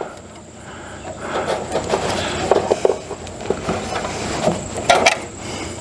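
Hand tools and parts being handled on an RV furnace blower assembly: irregular clicks, knocks and scraping, with a sharper knock about five seconds in.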